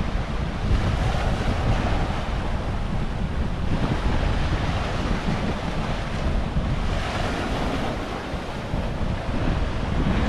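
Pacific Ocean waves washing in and out, their hiss swelling and fading a few times, with strong wind buffeting the microphone as a constant low rumble.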